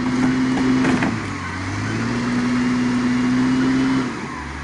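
Vehicle engine running steadily, its note rising a little about two seconds in, holding, then dropping back to a lower, quieter idle about four seconds in.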